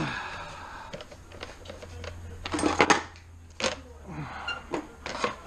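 Small metal parts and tools clinking and clattering as they are handled and set down, with a cluster of sharp clanks about three seconds in.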